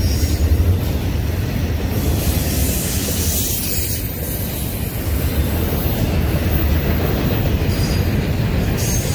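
Double-stack container well cars of a freight train rolling past, a steady rumble of steel wheels on the rails.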